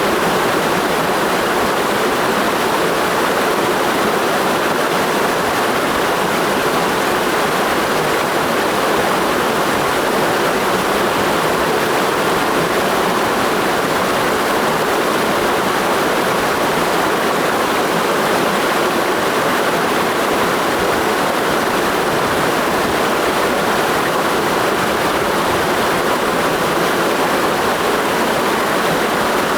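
Mountain stream rushing over rocks, a steady, even roar of water with no breaks.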